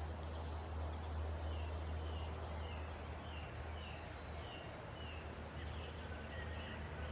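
A bird in the forest calling a run of short, slightly falling chirps, about two a second, over a steady low rumble.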